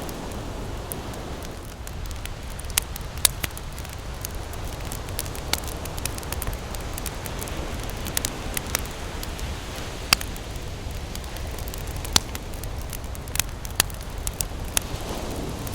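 Campfire wood crackling and popping, sharp irregular snaps over a steady low rumble of ocean surf.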